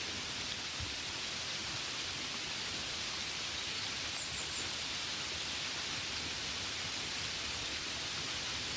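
Gentle rain falling steadily, an even hiss with no distinct drops standing out. About halfway through, three faint short high chirps sound in quick succession.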